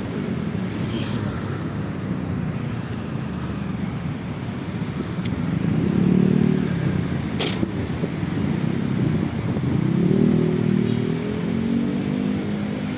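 Road traffic running steadily, with a vehicle's engine drone swelling louder as it passes close about five seconds in, and another about ten seconds in. There are two short clicks in between.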